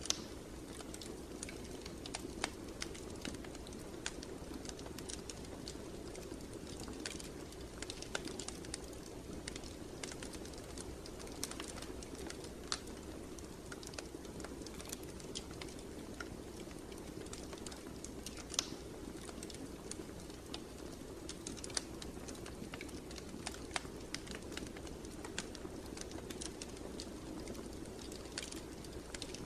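Wood fire in a fireplace crackling: irregular sharp pops and snaps, several every few seconds, over a steady low rush of the flames.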